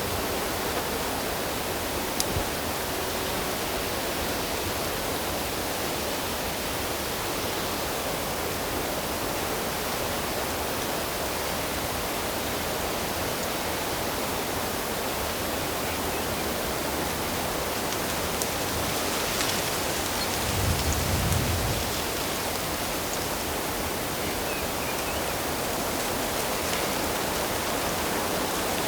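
Flowing water rushing steadily in an even hiss, with a brief low rumble about two-thirds of the way in.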